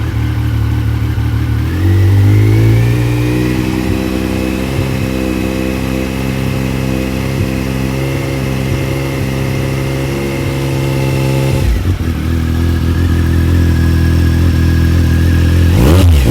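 Triumph Sprint ST 955i's three-cylinder engine through a TOR (Triumph Off Road) aftermarket end can, idling, then revved up about two seconds in and held steady at raised revs for around ten seconds before dropping back to idle. A quick blip of the throttle comes near the end.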